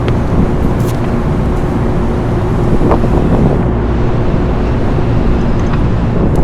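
Steady low mechanical drone with wind noise on the microphone, and a few light knocks about one and three seconds in.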